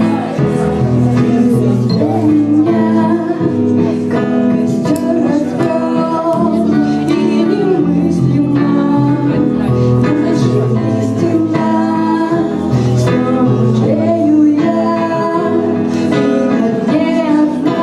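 Live band music with guitar and singing, a steady beat under held vocal notes.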